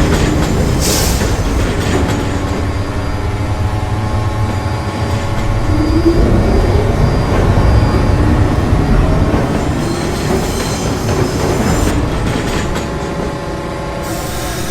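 New York City subway train running on the rails, a steady rumble of wheels under a whine of several tones.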